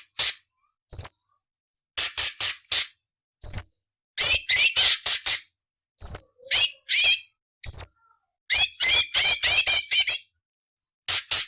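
Cucak cungkok leafbird calling in short bursts of harsh, rasping notes, broken by quick upward-sweeping whistles. Fast runs of rasps come in phrases of about a second, with sudden silences between them.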